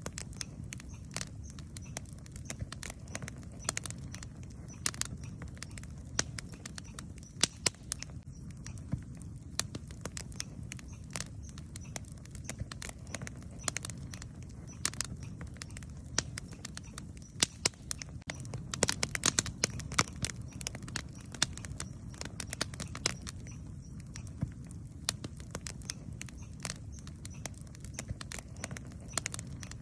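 Wood campfire crackling, with sharp irregular pops and snaps over a steady low rumble. The pops come thickest about two-thirds of the way through.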